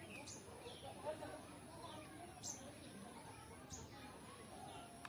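Small birds chirping: a handful of short, high, falling chirps spread out over a quiet background.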